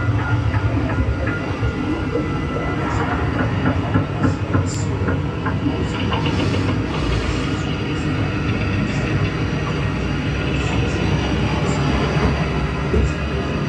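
A steady, loud rumbling soundscape played through an attraction's speakers, with scattered clicks and knocks over it.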